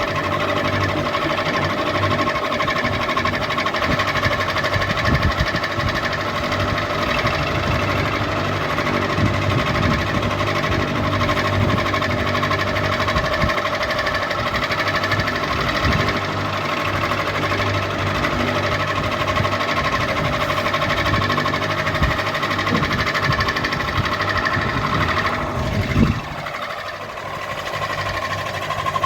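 Ceiling fan running with a steady motor hum and an uneven low rattle. About 26 s in there is a brief loud bump, and the low rumble drops away for a few seconds before it returns.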